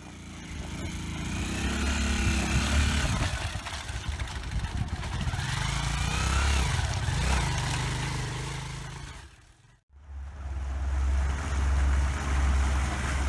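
Dirt bike engines running while riding. The sound comes in two clips joined by a brief dropout about ten seconds in, the second with a heavier low rumble.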